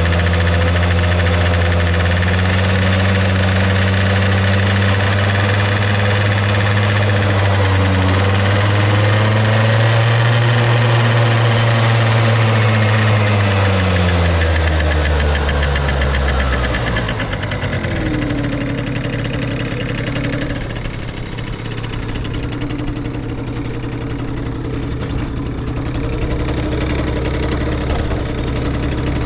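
Yamaha Vino (5AU) scooter's small two-stroke single-cylinder engine running without load, with no abnormal noise. The engine speed creeps up a little, then drops about halfway through and settles into a lower, steady idle.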